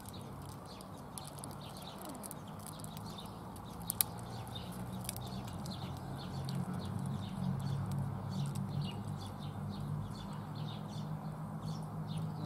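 Birds chirping and twittering in the background over a low steady hum that grows louder about halfway through, with one sharp click about four seconds in.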